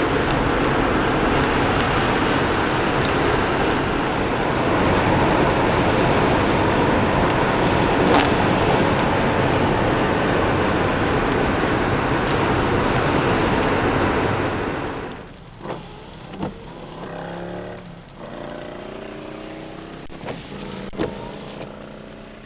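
Loud, steady wind and road noise inside a moving car. About fifteen seconds in it drops off sharply, and a few clicks and a whine rising in pitch follow near the end.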